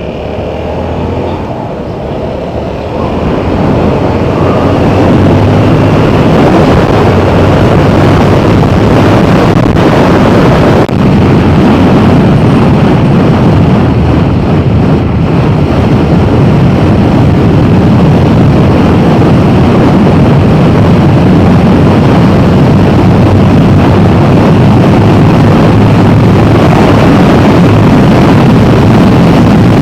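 Motorcycle on the move, its engine mixed with heavy wind noise on the microphone; the sound builds over the first few seconds, then holds steady and loud.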